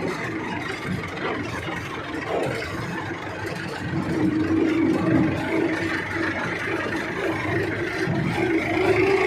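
A vehicle engine running steadily, its drone wavering in pitch and rising slightly near the end.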